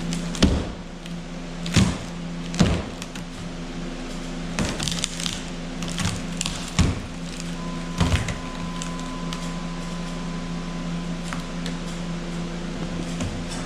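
Sharp knocks and cracks of wood, scattered irregularly, as rotten wood in a camper's frame is pried and worked loose, over a steady low hum.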